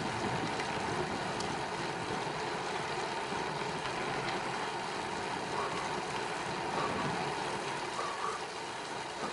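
Steady rush of wind on the microphone and road noise from a bicycle being ridden along a paved path.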